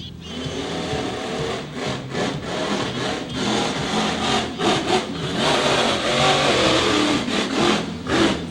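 Monster truck engine revving hard under full throttle through a timed qualifying run, with repeated surges, dropping off near the end.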